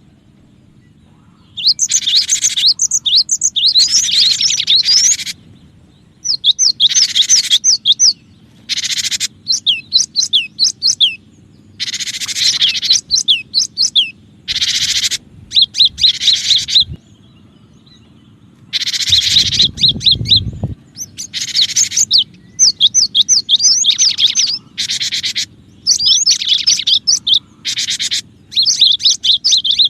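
Recorded song of a cinereous tit (gelatik batu), played as a bird lure: bursts of quick, high chirping notes, each lasting up to about two seconds, repeated with short pauses between them. About twenty seconds in, a low rumble sounds briefly under the chirps.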